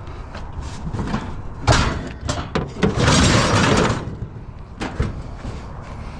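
Scrap being handled and shifted: a series of knocks and clunks, with a rough scraping slide lasting about a second near the middle.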